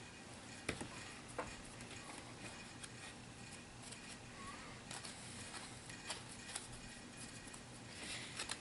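Faint, scattered small clicks and taps of plastic HeroClix miniatures and their bases being handled, over a quiet room background.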